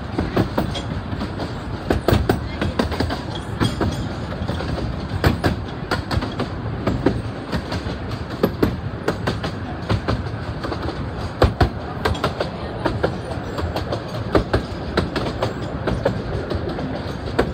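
Narrow-gauge railway carriage rolling along the track, a steady rumble with frequent irregular clicks and knocks from the wheels passing over rail joints.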